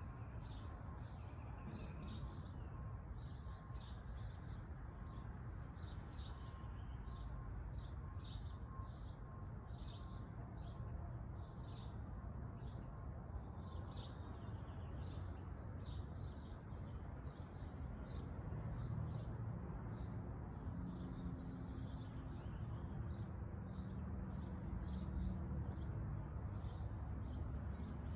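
Small birds chirping, many short high chirps throughout, over a steady low outdoor rumble that swells a little in the second half.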